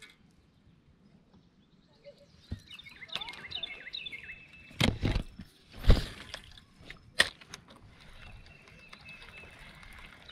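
A songbird chirping in repeated short notes, broken by three sharp knocks and thumps about five, six and seven seconds in, the middle one the loudest.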